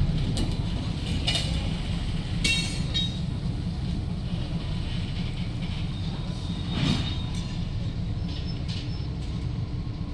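Diesel-hauled ballast work train moving slowly with a steady low rumble, cut by short high-pitched metallic squeals of wheels on rail about a second in and again near three seconds.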